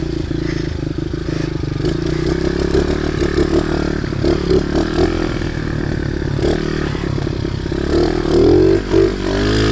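Small pit bike engine running under way, holding speed on its own with the throttle closed, a sign of a sticking throttle or too-high idle. About eight seconds in the revs rise and fall a few times.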